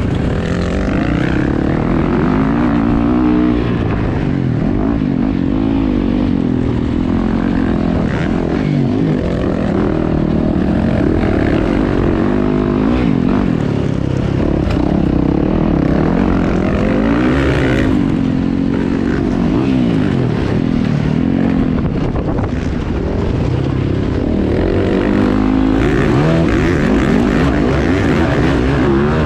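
Several motocross dirt bikes racing, their engines revving up and down in many overlapping rising and falling notes.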